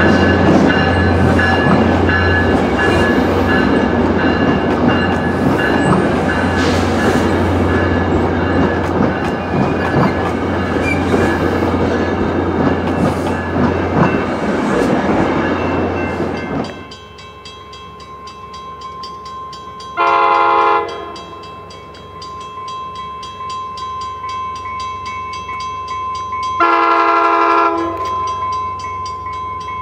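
A New Mexico Rail Runner double-deck commuter train rolling close past, a loud rumble and wheel clatter over a low engine drone, cut off abruptly at about 17 seconds. Then a distant train sounds its horn in two blasts about six seconds apart, over a steady ringing tone.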